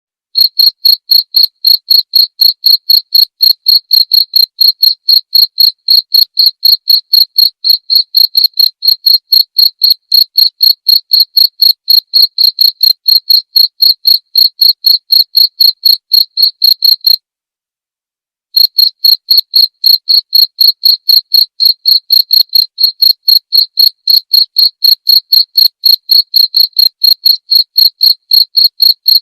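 Cricket chirping: a high, pure tone pulsed in a fast, even rhythm. The song breaks off for about a second past the middle, then resumes in the same rhythm.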